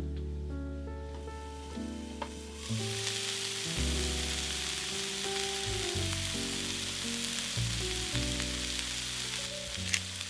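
Food frying in oil in a pan: a sizzle starts suddenly about three seconds in and carries on steadily.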